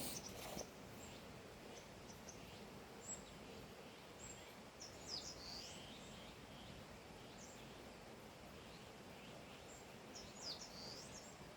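Wild birds chirping in short, high bursts a few times over a faint, steady outdoor hiss, with a brief noise right at the start.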